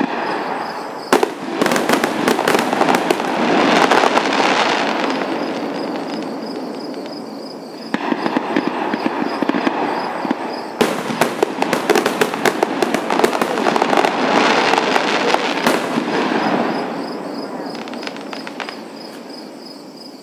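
Aerial fireworks going off in two long volleys of rapid bangs and crackling. The first runs from about a second in to about seven seconds, and the second from about eight seconds to near the end; each one dies away.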